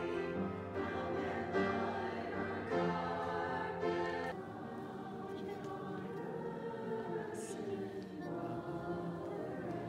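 Choir singing held, sustained chords; the singing becomes softer about four seconds in.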